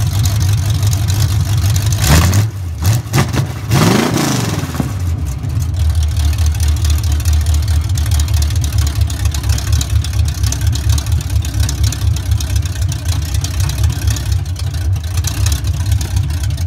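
Chevrolet 350 small-block V8 running on open long-tube headers with no exhaust fitted, warming up after a cold start. It is blipped twice, about two and four seconds in, the second rev rising and falling, then settles back to a steady, choppy idle.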